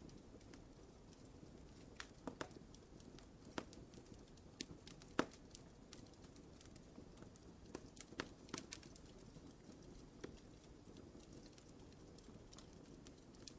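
Wood fire crackling in a fireplace: a low steady hiss under irregular sharp pops and snaps, with the loudest pop about five seconds in and small clusters around two and eight seconds in.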